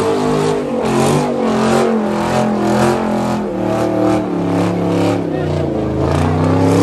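Car engine revving hard during donuts, its pitch rising and falling again and again as the rear tires spin, with crowd voices over it.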